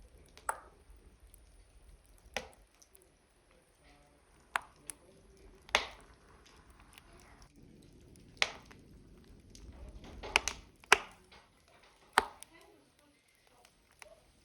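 Burning logs crackling in a wood stove: about ten sharp pops and snaps at irregular intervals, the loudest cluster about ten to eleven seconds in.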